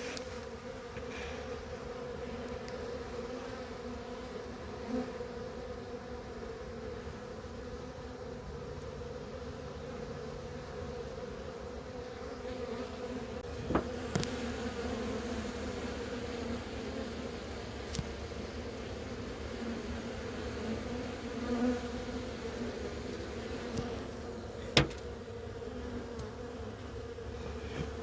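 Honeybees buzzing in a steady, dense hum, with a few sharp clicks.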